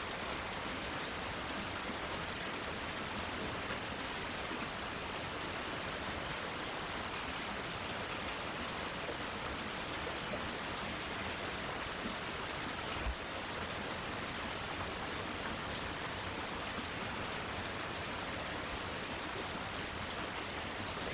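Steady rain falling, an even hiss of many drops with no let-up. A single brief low thump about two-thirds of the way through.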